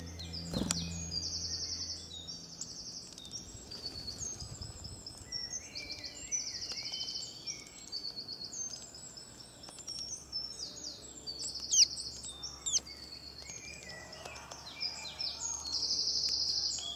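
Small birds chirping and singing in fast, high trills, one short phrase after another, with a low hum underneath for the first couple of seconds.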